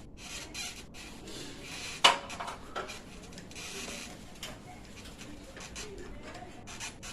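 Handling noise from work on the installation: irregular rubbing, scraping and light clinking of metal tools or parts, with one sharp knock about two seconds in.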